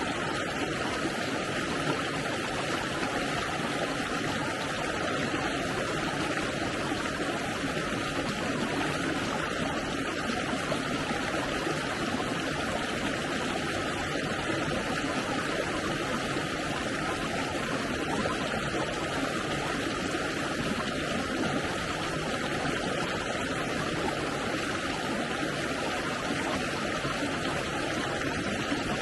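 Water of a stream running steadily, a continuous even rush with no breaks or distinct splashes.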